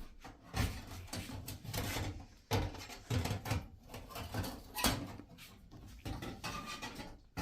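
Irregular knocks and clatter from things being handled and moved, with rustling in between.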